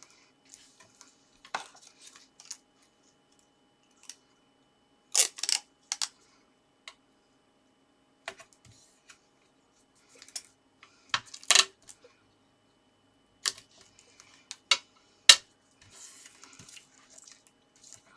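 Paper and card being handled on a table while double-sided tape is put on: scattered sharp clicks and taps, bunched about five seconds in and again about eleven seconds in, with light paper rustling near the end.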